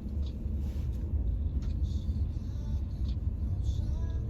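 Renault Samsung SM3 driving, heard from inside the cabin: a steady low engine and road rumble.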